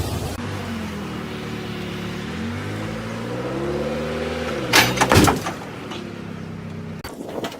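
Car engine revving up, rising in pitch, then a crash: a cluster of loud impacts about five seconds in, with the engine running on steadily afterwards.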